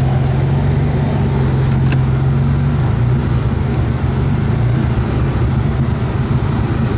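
Jeep engine running steadily in low gear down a steep slickrock descent, engine braking to hold the vehicle back without the brakes. It makes an even, unbroken drone.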